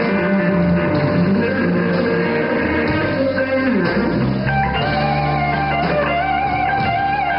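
Guitar music: plucked guitar notes with a melody line moving over held lower notes.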